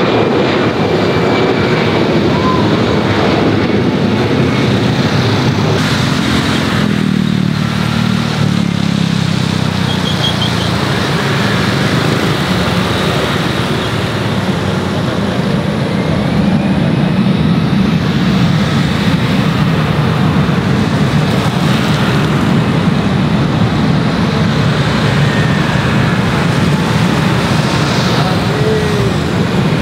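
Loud, continuous engine rumble with a drone that falls in pitch as something passes about seven to ten seconds in.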